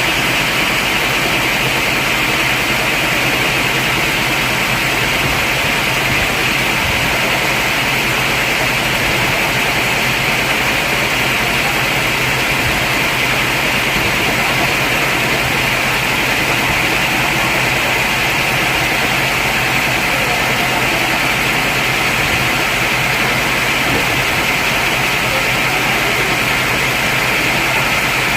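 Sawmill machinery running steadily: a constant loud mechanical noise with a bright hiss over a low hum, unchanging throughout.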